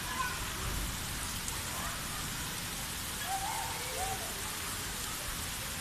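Heavy monsoon rain falling steadily on the street, roofs and trees: an even, unbroken hiss.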